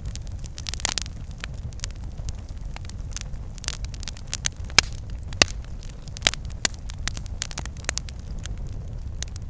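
Campfire burning and crackling: irregular sharp pops and snaps, a few louder than the rest, over a steady low rumble.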